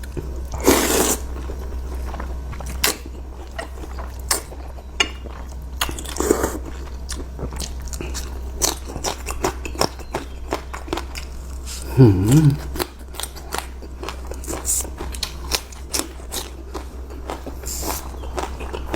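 Close-miked eating of curry noodles: chewing with many sharp, crunchy clicks, broken by three longer slurps about a second in, around six seconds and near the end. A short hum from the eater comes about two thirds of the way through.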